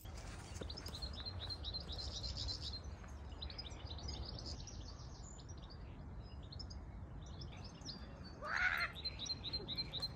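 Songbirds singing, with strings of quick high chirps and trills, over a low rumble of wind on the microphone. A short, louder call stands out about eight and a half seconds in.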